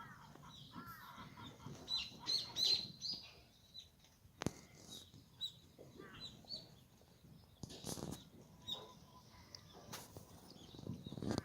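Birds calling in short chirping bunches, with a few sharp clicks or knocks between them.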